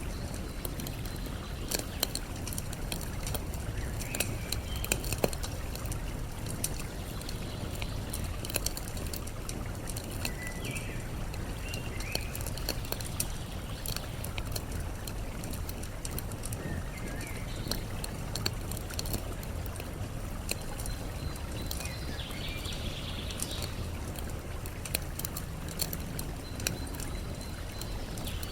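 Campfire crackling with scattered sharp pops over a steady rush of flowing water, with short bird chirps now and then.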